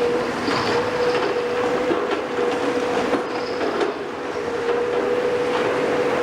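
Heavy demolition machinery working: a steady whine under continuous scraping and grinding, with scattered metallic knocks and clanks.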